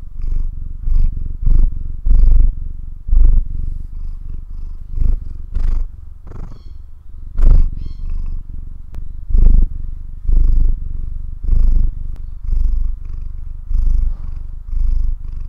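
Domestic cat purring, a low rumble that swells and eases in a steady rhythm with each breath in and out.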